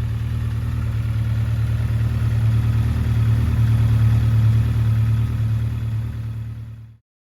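Honda CB1300 Super Four SP's inline-four engine running at a steady idle, swelling slightly in the middle, then fading out and stopping about seven seconds in.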